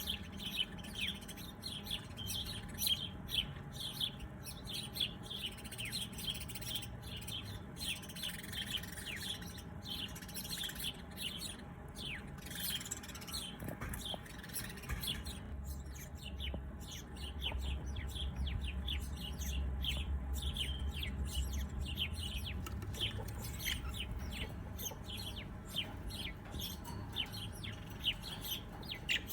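Many small birds chirping and calling in quick, short notes, a dense overlapping chorus. A low rumble sits underneath through the middle of the stretch.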